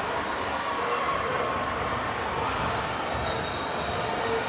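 A ball bouncing on a gym floor over the steady noise of a large hall, with a few short, high squeaks near the end.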